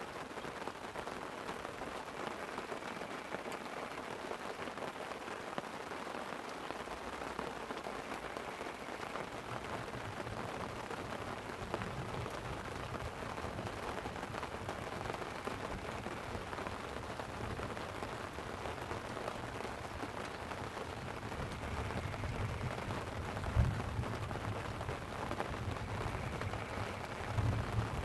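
Light rain pattering steadily on a tent. About ten seconds in, a low rumble of distant rolling thunder builds and grows louder near the end.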